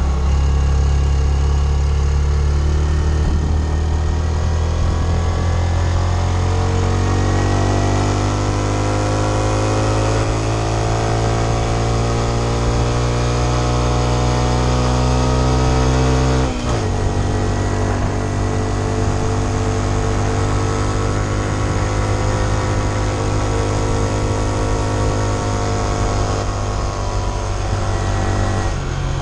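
Honda CT125's single-cylinder four-stroke engine under way, its pitch climbing steadily as the bike accelerates in gear. About halfway through, the pitch drops sharply at an upshift, and the engine then runs steady at a lower pitch.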